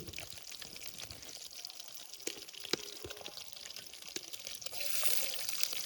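Liquid pouring and dripping, with scattered small clicks and a hiss that grows louder about five seconds in.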